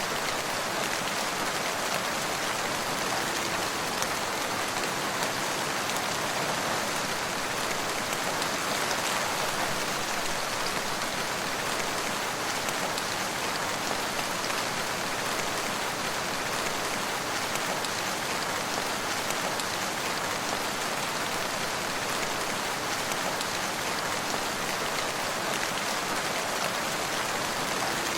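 Steady rain falling and pattering on surfaces, an even hiss with individual drops faintly audible.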